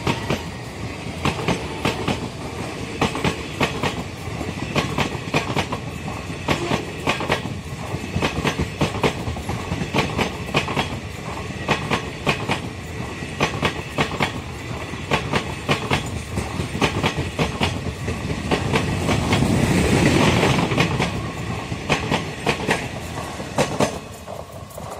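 Passenger coaches of an express train rolling past at speed, steel wheels clattering over the rail joints in quick clusters of clicks over a steady rumble. The sound swells about 20 seconds in, then fades near the end as the last coaches go by.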